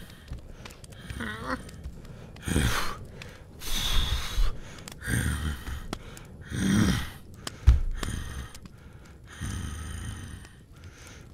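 Cartoon sound effects of an animal breathing heavily, with a short breath every second or so. A short wavering squeak comes just over a second in, and a sharp knock near eight seconds.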